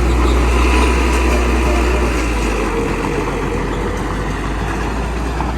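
Small bulldozer's diesel engine running, with a deep rumble that eases off about halfway through.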